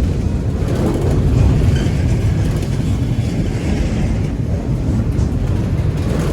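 Auto-rack cars of a freight train rolling past, a steady heavy rumble of wheels on rail.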